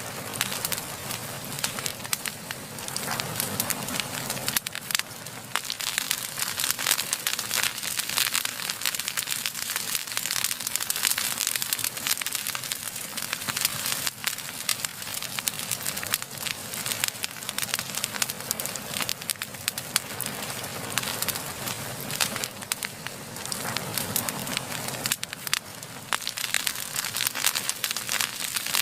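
Wood fire burning: a steady hiss of flame with dense, continuous crackling and frequent sharp pops.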